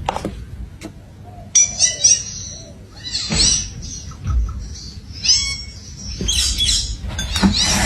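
Parrot giving short, high chirping calls in several separate bursts.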